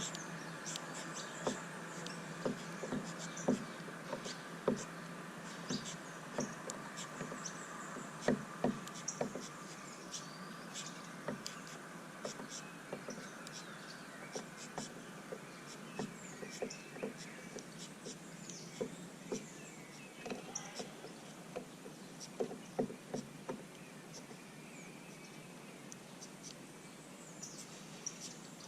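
Small birds chirping at a feeder in short high calls, with frequent sharp taps and clicks. A steady high buzz fades out about two-thirds of the way through.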